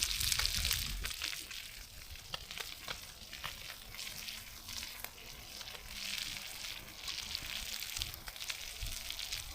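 Food frying in a pan, a steady sizzle with many small crackles and pops throughout.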